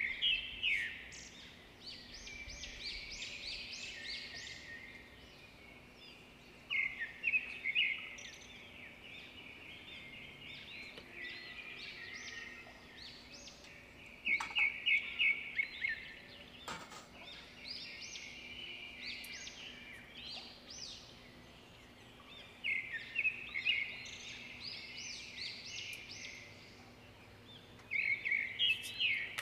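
A bird singing the same phrase over and over, about five times: a loud burst of quick, high notes followed by a softer chattering run lasting a few seconds.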